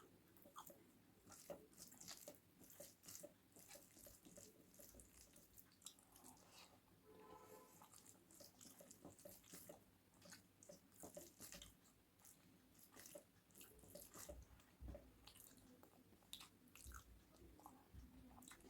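Faint close-up chewing and mouth sounds of a person eating a meal of rice and curries, a steady run of small wet clicks and smacks. A short pitched sound comes in about seven seconds in.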